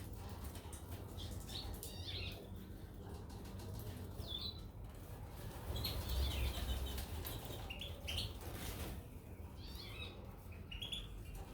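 Goldfinches and canaries giving short, scattered chirps, with wing flapping and small clicks now and then.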